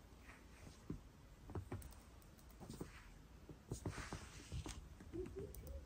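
Faint, scattered light taps and clicks from a pet parakeet moving about, with a brief soft sound near the end.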